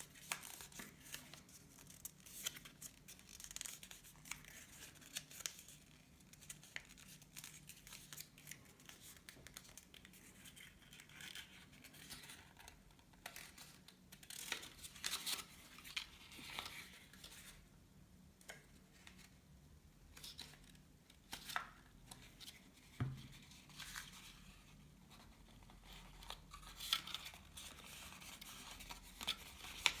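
Paper being handled at close range: rustling and crinkling, with many short, crisp clicks as it is creased or cut. There is a quieter pause about two-thirds of the way through.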